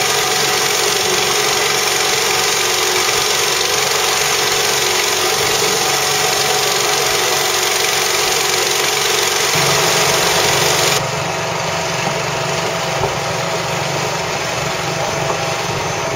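A motor running steadily, with a dense wash of noise; the sound drops suddenly to a lower level about eleven seconds in.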